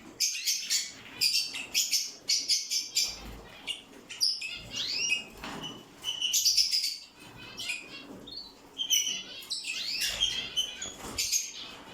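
Lovebirds chirping and chattering: a dense run of short, high calls, with a few rising notes around five and ten seconds in.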